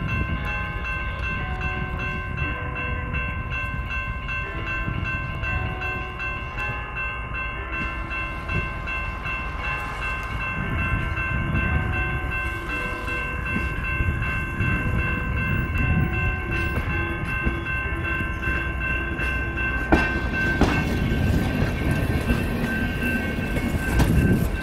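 Passenger train running by, hauled by EMD F40FH diesel-electric locomotives: a steady low rumble with a continuous high-pitched squeal over it. Several sharp clacks of wheels over rail joints come near the end.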